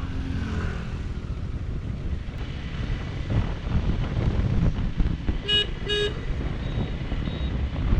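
Motorcycle on the move, with steady wind rush on the microphone over a low engine rumble. About five and a half seconds in, a vehicle horn beeps twice in quick succession.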